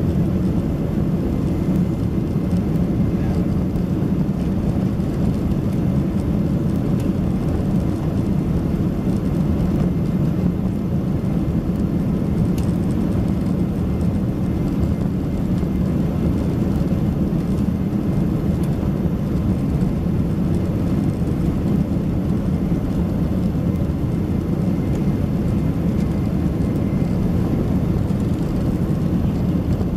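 Steady roar of a Boeing 767-300ER's engines and airflow heard inside the passenger cabin in flight, unchanging throughout.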